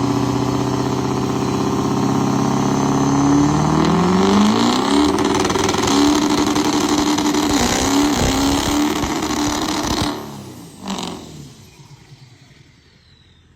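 A vehicle engine accelerating hard, rising in pitch over the first few seconds, then held high with a brief dip. It cuts off about ten seconds in, gives one short burst a second later, then fades away.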